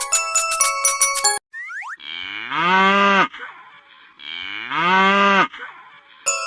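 Two cow moos, each lasting about a second and dropping slightly in pitch at the end, preceded by a short rising boing. Cheerful mallet-percussion music breaks off about a second and a half in and comes back near the end.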